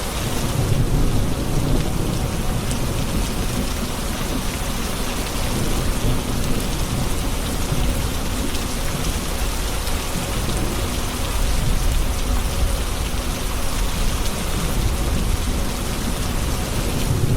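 Steady heavy rain hissing on hard surfaces in a thunderstorm, with low rolling thunder that swells about a second in and again near the end.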